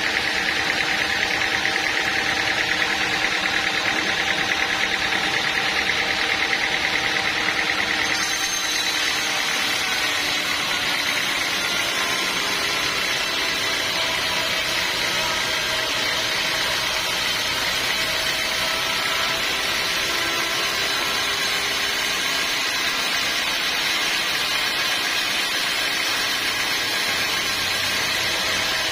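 Sawmill machinery running steadily, a mix of motor noise and whine. About eight seconds in, a high whine drops out and the noise becomes a little quieter.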